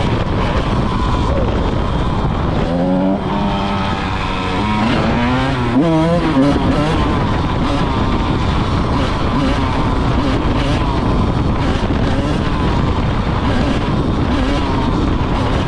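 Honda CR125 single-cylinder two-stroke dirt bike engine being ridden hard, its pitch rising and falling through revs and gear changes about three to six seconds in, then running steadily at high revs.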